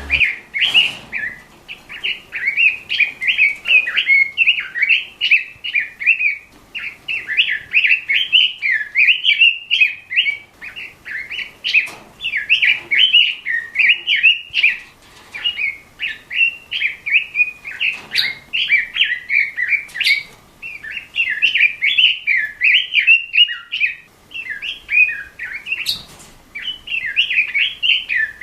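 Red-billed leiothrix (Pekin robin) singing: a rapid, continuous warbling song of quick, sliding notes, delivered in phrases with brief pauses between them.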